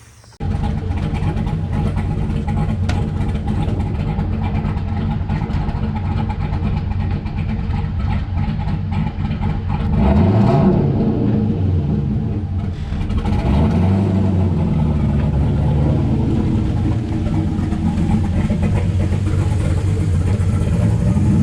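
Turbocharged LS V8 of a street-legal stock car running loud, revving up and dropping back about halfway through, then rising again a few seconds later.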